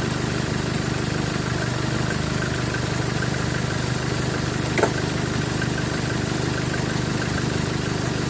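2013 Chevrolet Colorado engine idling steadily, with a faint regular ticking and one sharper click about five seconds in. The mechanic puts the ticking down to a failing alternator pulley making the drive belt flick.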